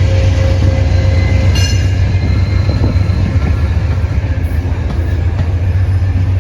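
Amtrak City of New Orleans passenger train running, a loud steady deep rumble with a brief high-pitched squeal about a second and a half in.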